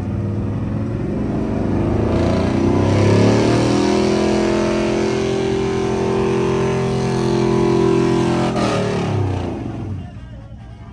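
A vehicle engine revs up over a few seconds, is held at high revs for about five seconds, then drops back and goes quiet near the end.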